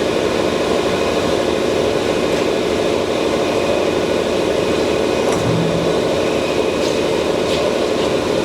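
Knuth Mark Super S mill-drill running steadily under power: the geared head's motor and gears give a constant hum with several steady tones while the spindle turns and the power quill feed moves. A few faint ticks sound over it.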